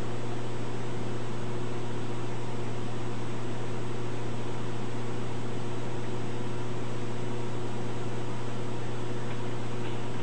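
A steady machine hum with a strong low drone and an even hiss over it, not changing at all.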